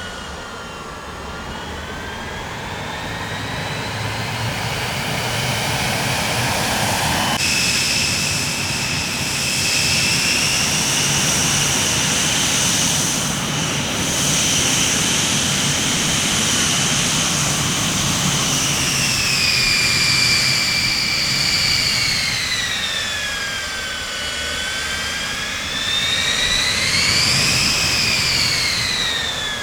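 Jet aircraft engines running with a high whine over a low rumble. The whine jumps up in pitch about seven seconds in, holds, then sags and climbs again near the end.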